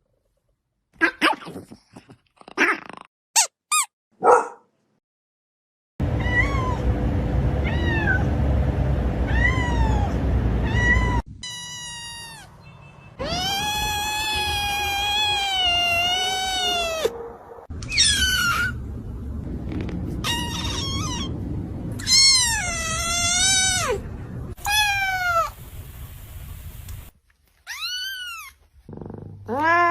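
Cats meowing and yowling in a series of separate calls, mostly drawn-out rising-and-falling meows. The longest is a wavering yowl of about four seconds near the middle.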